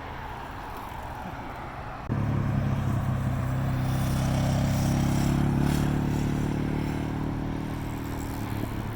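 Wind and road rumble, then about two seconds in a motor vehicle's engine sets in suddenly, running with a steady hum and shifting slightly in pitch before slowly fading.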